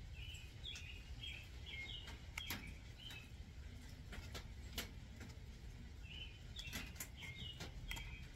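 A small bird chirping in the background in two bouts of quick, short notes that step up and down in pitch, with a few faint sharp clicks in between.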